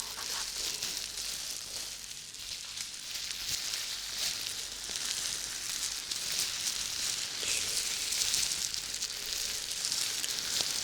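Close, steady crackling and fizzing noise, like sizzling, made of many tiny clicks.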